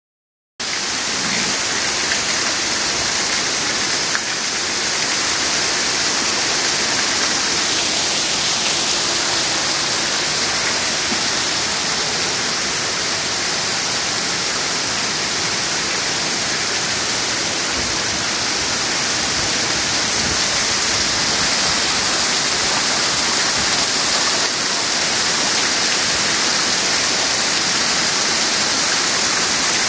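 Heavy rain falling hard in a steady, unbroken downpour.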